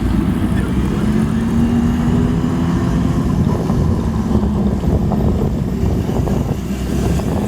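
Vintage motorcycle engine and exhaust running as a bike rides out, a steady pitched note that rises slightly, dips a little partway through, then picks back up near the end.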